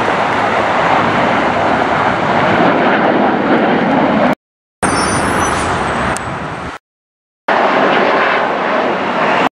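Loud jet aircraft engine noise, a steady rushing roar, in three short clips separated by abrupt half-second silences. The middle clip carries a faint high whine and fades down before it cuts off.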